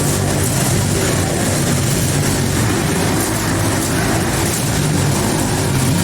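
Several motorcycle engines running together at steady speed inside a globe of death, a loud, dense, unbroken engine drone with no single engine standing out.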